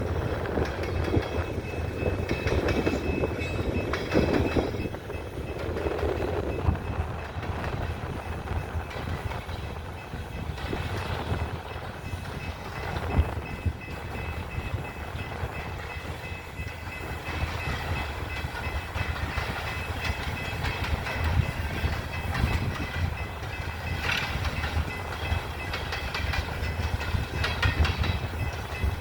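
Coal train freight cars rolling along the track, a steady rumble with wheels clicking over the rail joints.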